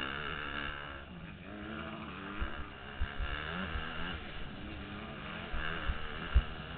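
Motocross bike engine revving up and down, heard through a helmet-mounted camera, with short low thumps against the mic, the loudest about six seconds in.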